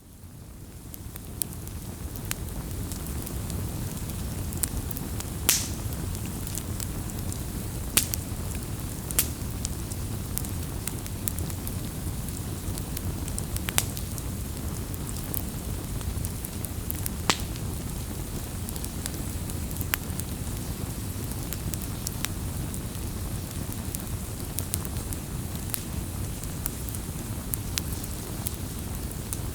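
Wood campfire burning: a steady low rush of flame with frequent small crackles and occasional sharper pops as the wood burns. The sound fades in over the first second or so.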